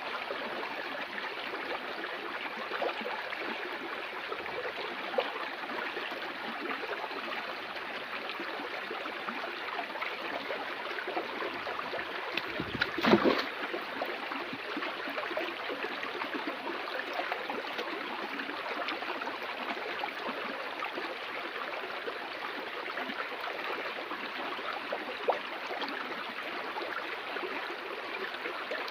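Flowing water running steadily, like a stream, with a louder, brief surge about halfway through.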